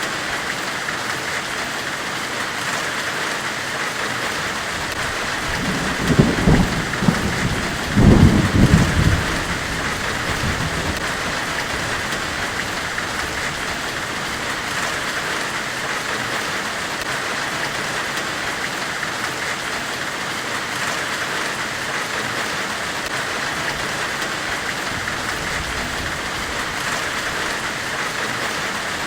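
Steady, even white-noise hiss in the manner of a forge weld, with two short deep rumbles about six and eight seconds in.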